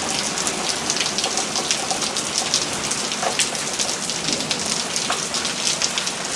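Heavy thunderstorm rain coming down pretty good: a steady rush of rainfall with many sharp, separate drop hits close by.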